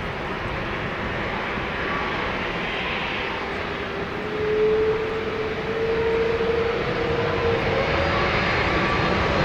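Airbus A330-343 with Rolls-Royce Trent 700 engines on landing approach: a steady jet rumble that grows louder, with an engine whine that rises slightly in pitch about halfway through.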